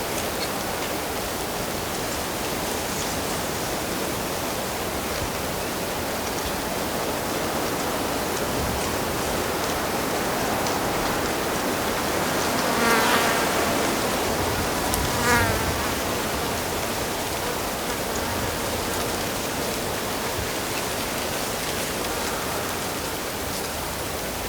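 Steady rushing of a stream, with an insect buzzing close past twice about halfway through, its wavering hum briefly rising above the water.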